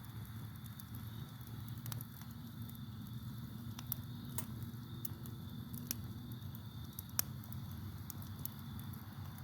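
Campfire burning: a low steady rumble with scattered sharp crackles and pops of burning wood, the loudest about seven seconds in. Under it runs a steady high trill of crickets.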